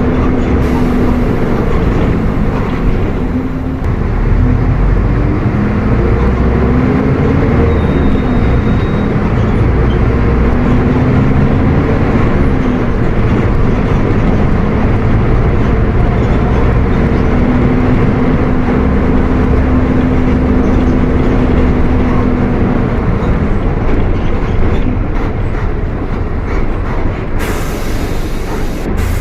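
Mercedes-Benz OF 1722M bus chassis' diesel engine running steadily under way, its note rising and falling in pitch at times.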